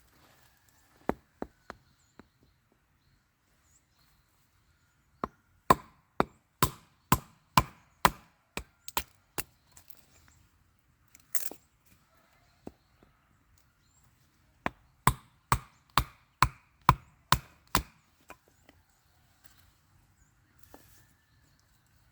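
Firewood being chopped: two runs of sharp chopping blows at about two a second, with a few single strikes before, between and after them.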